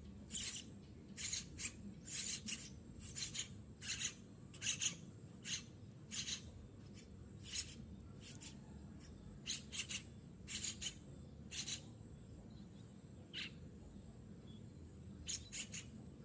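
Yellow-vented bulbul nestling begging with short raspy, hissing calls, about one or two a second, falling quiet for a few seconds near the end before starting again.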